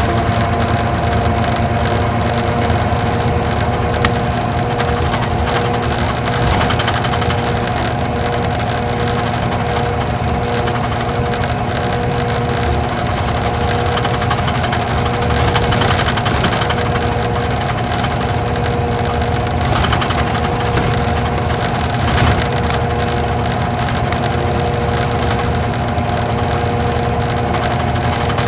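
Isuzu Gala coach's V-type diesel engine running steadily, heard inside the bus cabin, with a constant whine over the engine note. A few light knocks or rattles sound briefly, one about four seconds in and another near twenty-two seconds.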